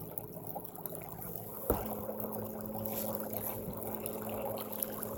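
Kayak being launched onto the lake: water sloshing against the hull, with one sharp knock about two seconds in and a steady low hum after it.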